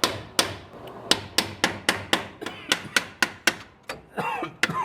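Hammer tapping on metal in a steady run of about fifteen sharp strikes, roughly three a second, each ringing briefly. A short voice-like sweep comes near the end.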